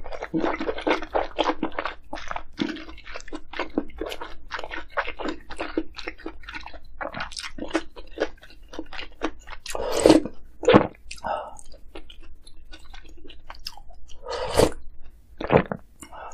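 Close-miked chewing of food, with a dense run of short crisp crunches. A few louder sharp sounds come about ten seconds in and twice near the end.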